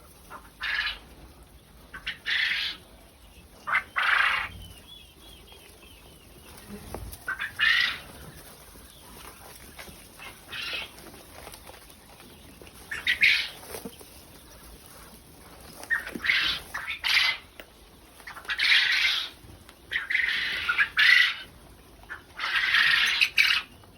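Quail flapping their wings and scuffling in the enclosure: about a dozen short bursts a second or more apart, coming thicker near the end, with a faint run of soft chirps about five seconds in.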